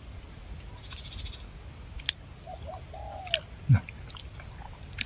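A bird gives a short call, rising and then falling, among scattered small clicks, with one loud low thud about three-quarters of the way through.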